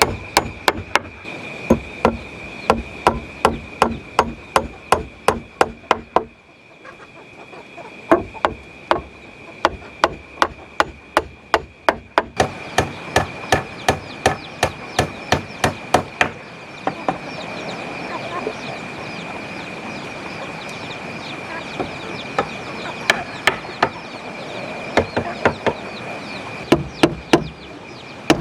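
Repeated blows of a tool striking wood at a steady rhythm of about two a second. They pause briefly about six seconds in and again for several seconds in the middle.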